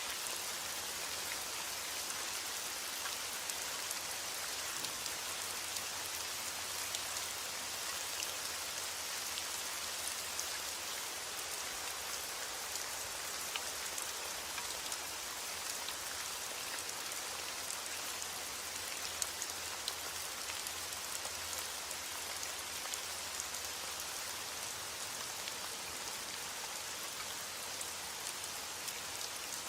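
Steady rain falling, an even hiss dotted with the ticks of individual drops striking a surface.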